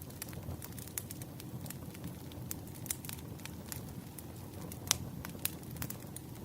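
Campfire burning, a steady low rumble of the flames with irregular sharp crackles and pops; the loudest pop comes about five seconds in.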